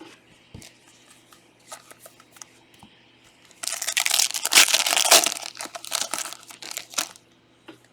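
Trading-card packaging being torn open and crumpled by hand, a loud stretch of ripping and crinkling lasting a few seconds after some light handling clicks.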